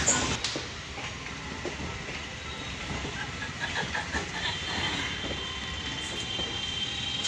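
Suburban electric local train running along the track, a steady rumble with wheels clicking over the rail joints; a faint high squeal or whine comes in about halfway through.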